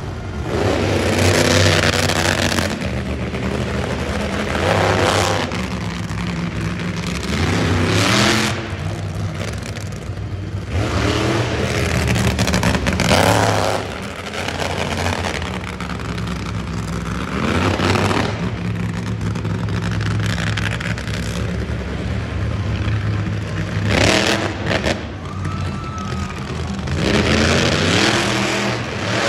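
Monster truck engine revving hard over and over during a run. The pitch climbs in repeated surges every few seconds, about seven times.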